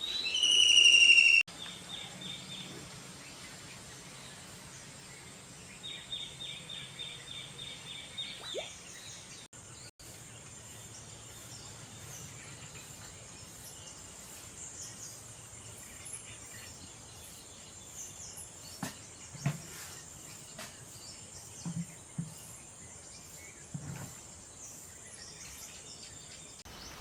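Wild birds calling: loud whistled notes at the start, then fast trilled rattles of short high notes. A thin steady high hiss runs underneath, and a few soft low thumps come later.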